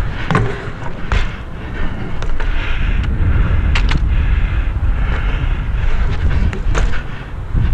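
Wind buffeting the action-camera microphone, a steady low rumble, with several sharp knocks scattered through it.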